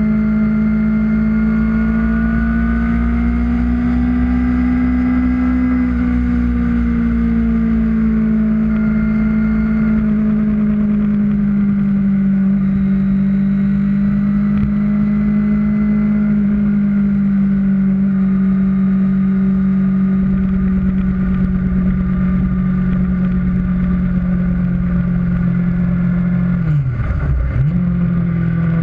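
Kawasaki Ninja ZX-6R's inline-four engine running at steady road speed, its note drifting slowly up and down. Near the end the engine note drops sharply and climbs straight back.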